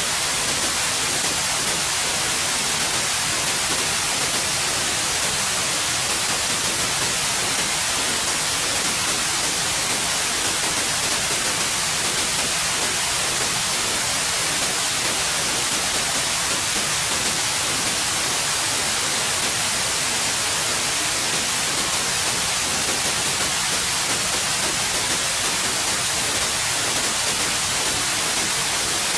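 Steady synthetic white noise: an even, unchanging hiss weighted toward the high end.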